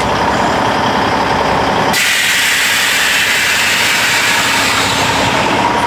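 Truck engine idling, with a sudden steady hiss that starts about two seconds in and fades out a few seconds later.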